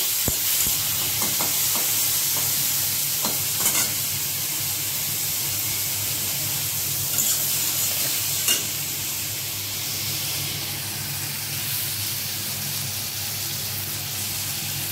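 Chopped vegetables sizzling as they fry in hot oil in a metal kadai, with a steel spatula scraping and tapping against the pan now and then as they are stirred.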